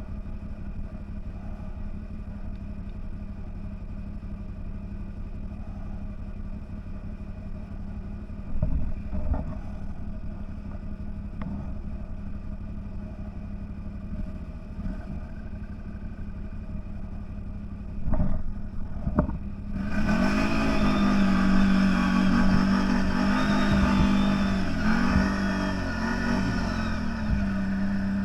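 CFMOTO 1000 off-road vehicle's engine running steadily, with a couple of brief knocks about a third and two thirds of the way in. Near the end it grows louder and revs up and down.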